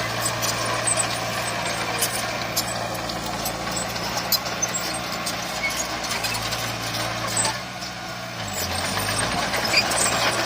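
Heavy diesel earthmoving machinery running steadily, with scattered sharp clanks and rattles. About eight seconds in, the engine note dips lower for a moment, then picks back up.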